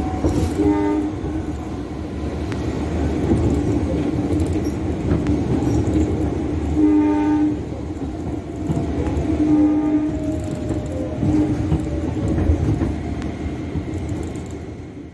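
Train running past with a steady rumble of wheels on rail, and its horn sounding four times: a short blast about a second in, a longer one around seven seconds, then two shorter ones near nine and a half and eleven seconds.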